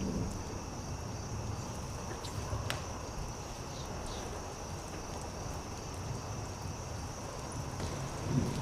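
Campfire crackling, with a few sharp pops, over a steady high chirring of crickets.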